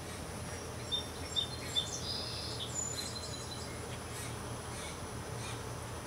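Small birds chirping with short, high whistled notes, busiest between one and three seconds in, over a steady low hum.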